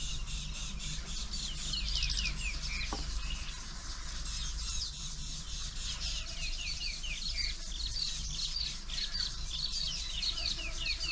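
Several birds chirping and calling, with many short downward-sliding notes given in quick runs throughout. A low steady hum runs underneath.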